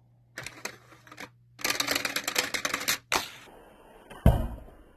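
Hot Wheels die-cast toy cars racing down plastic track, giving a few clicks and then over a second of rapid rattling clicks, followed by a sharp loud knock about four seconds in.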